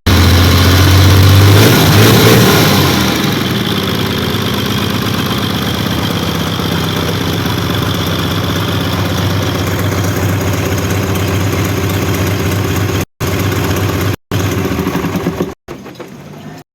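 Hino H07D inline-six diesel bus engine running. It is louder for the first two to three seconds, then settles to a steady idle.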